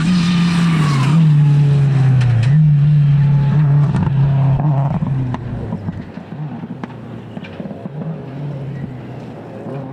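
Four-wheel-drive rally car's engine running hard as the car passes close by. Its note drops as it goes past and dips twice with throttle and gear changes, then fades as the car moves off, about halfway through.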